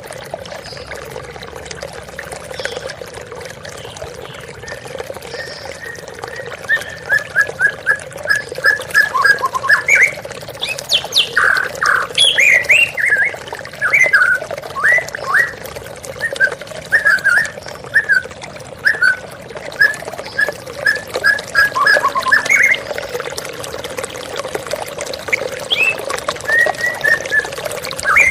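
A murai (white-rumped shama) singing in runs of short, quick repeated notes with sharper whistles mixed in, over the steady rush of a waterfall. For the first few seconds only the water is heard, and then the bird starts up.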